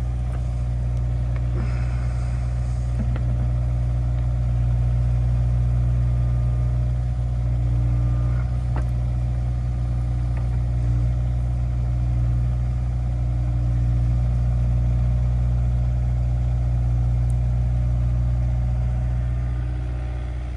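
Diesel engine running steadily, its level swelling and easing a little, with a few faint knocks.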